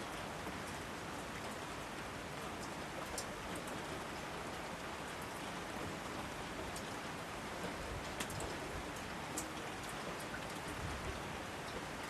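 Steady rainfall, an even hiss with scattered louder drops ticking on nearby surfaces.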